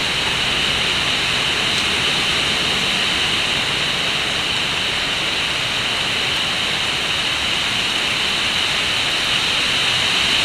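Heavy wind-driven rain and strong wind from a hurricane's outer bands, a steady, even hiss.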